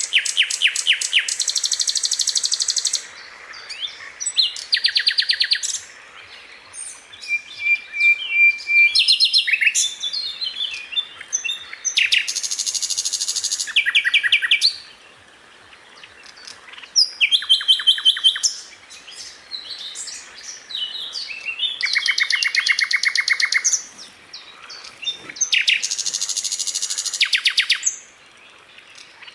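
Sikatan londo flycatcher singing: high-pitched trills of rapidly repeated notes, each lasting two or three seconds and coming about every four to five seconds, with short whistled notes and chirps between them.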